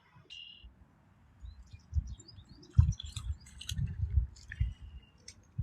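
Small birds chirping in short high trills, over repeated low thumps and rumbles, the loudest about three seconds in.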